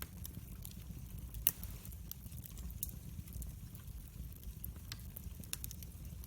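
Wood fire crackling: scattered sharp pops and snaps, the loudest about a second and a half in, over a steady low rumble.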